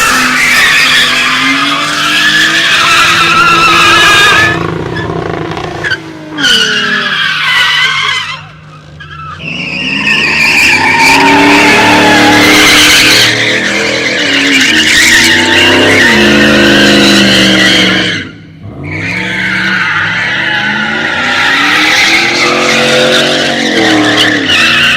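Car engine revving high while its tires squeal in long skids, with brief letups about six, eight and eighteen seconds in.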